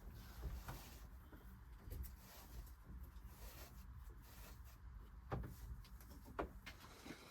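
Faint, steady low rumble of wind during a heavy snowfall, with a few soft knocks, two of them in the last couple of seconds.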